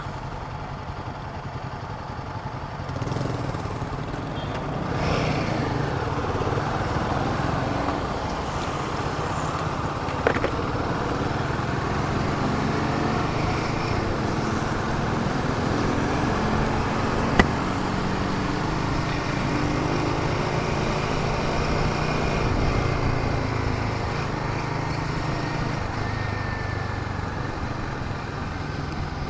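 Royal Enfield Himalayan 450's single-cylinder engine running while being ridden, its pitch rising and falling gently with the throttle. Two short sharp clicks stand out, about 10 and 17 seconds in.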